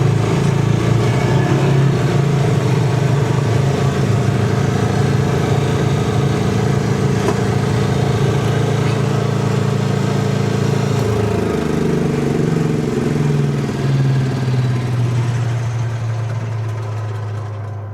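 Engine of a tow-behind flail mower rig running steadily under load. The engine note drops in pitch about eleven seconds in, and the sound grows fainter near the end.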